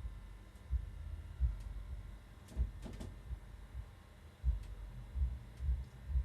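Soft low thuds at uneven intervals, with a few faint clicks about halfway through: the sound of a person moving about and handling things.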